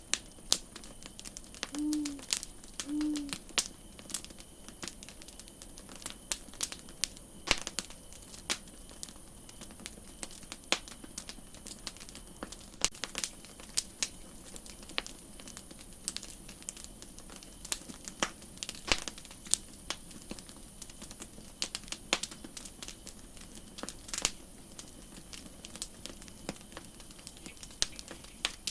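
Wood campfire crackling: sharp, irregular pops and snaps over a steady hiss. About two seconds in come two short low-pitched calls, a second apart.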